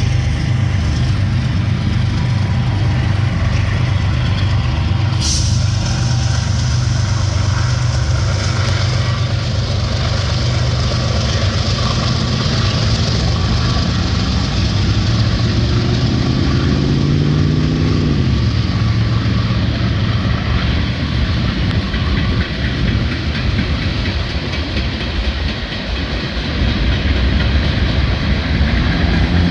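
Diesel train locomotive engines running as the train passes close by. A little past halfway the engine note drops in pitch as the locomotives go past, and then the rolling rail cars take over with a rougher, noisier rumble.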